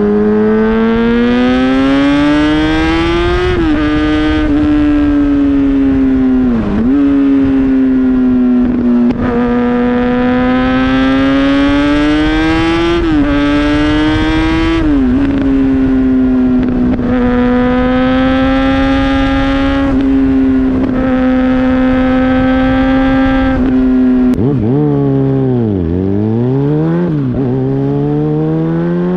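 Inline-four sport bike engine pulling hard through the gears: the pitch climbs, drops sharply at each shift and then holds steady at high revs for long stretches. Near the end the revs fall away and climb several times as the bike slows and accelerates again.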